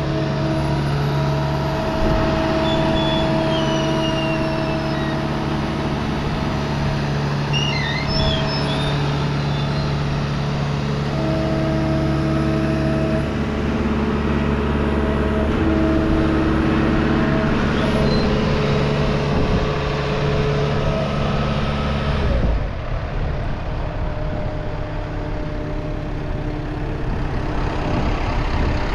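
Gehl V400 skid steer's engine running steadily. About 22 seconds in, the sound drops and gets quieter, settling to a lower, idling note.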